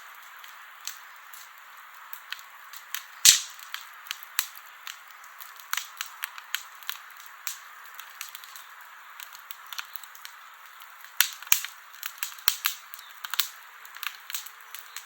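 Wood campfire crackling: irregular sharp pops and snaps over a steady soft hiss, with one loud pop a little over three seconds in and a quicker run of pops from about eleven to thirteen seconds in.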